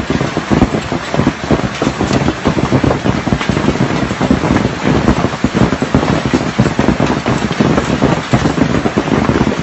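Hailstones pelting down hard: a loud, dense, unbroken clatter of countless irregular impacts.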